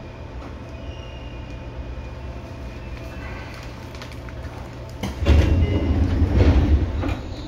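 Seibu 2000 series electric train running, heard from the cabin floor directly above its line breaker: a steady rolling rumble with a low hum. About five seconds in, a click is followed by a louder burst of rumble and clatter lasting about two seconds.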